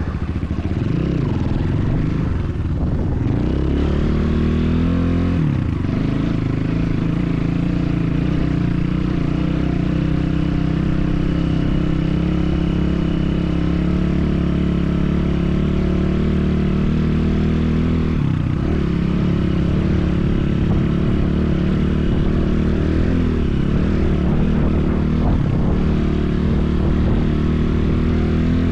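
Enduro motorcycle engine running under way, its pitch dipping and climbing again several times.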